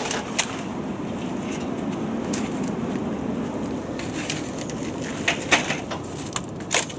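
Steady wind noise, with sharp rustling and clattering knocks from about four seconds in.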